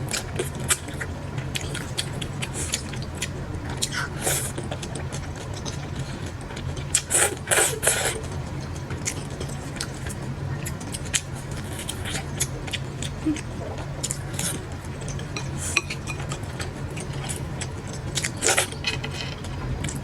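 Utensils clicking and scraping against dishes and food containers while eating, with a louder rustle about seven seconds in, over a steady low hum.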